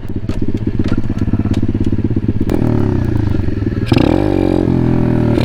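Pit bike's small single-cylinder engine running. It revs up about two and a half seconds in, then opens up sharply near four seconds with a rise and fall in pitch as the throttle is worked for a wheelie.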